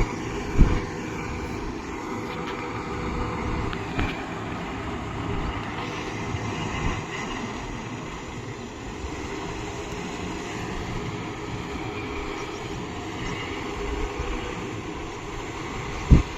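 Kubota MU 5502 tractor's diesel engine running steadily, with a few short thumps about half a second in, at about four seconds and near the end.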